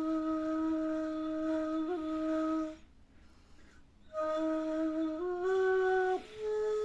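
A solo flute-like wind instrument improvising a taksim in makam Hüseyni: one long held note, a pause for breath of about a second and a half, then notes stepping upward.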